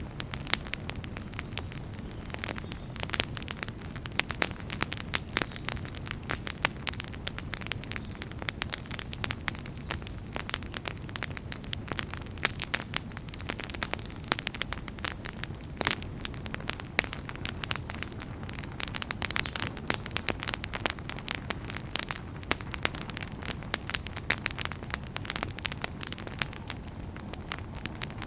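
Wood fire crackling steadily: many sharp pops and snaps over a low rumble of burning.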